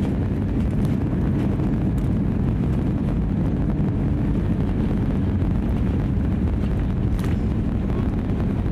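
Steady low rumble of an Airbus A320neo's engine and airflow noise, heard inside the passenger cabin.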